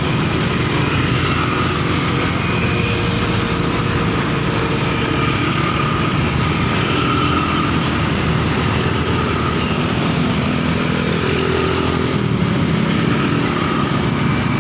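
Motorcycle being ridden at speed: a steady rush of wind buffeting the microphone over the small engine's running note.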